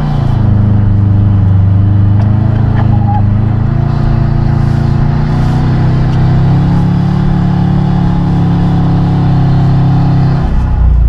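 Subaru WRX turbocharged flat-four with an aftermarket exhaust, heard from inside the cabin while driving on snow, running at moderate, fairly steady revs. The engine note shifts pitch a few times as the throttle changes.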